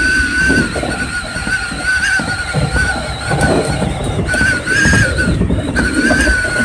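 Electric commuter train running along the track, heard from inside the front cab: a rumble of wheels and running gear under a steady, high, slightly wavering whine that drops out briefly twice in the second half.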